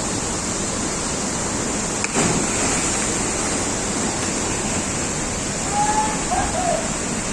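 Steady rushing of flowing water, like a waterfall or fast stream, with a sudden louder burst about two seconds in and a few short gliding calls near the end.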